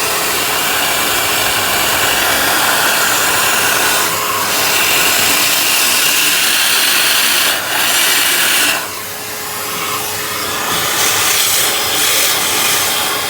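Vacuum cleaner running steadily, sucking standing water out of a refrigerator's drip pan. Its sound shifts briefly a few times, with a short drop in level about two-thirds of the way through.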